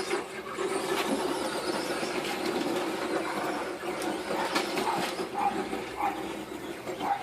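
Radio-controlled car driving, its motor running with a steady, wavering hum, with a few short sharp knocks along the way.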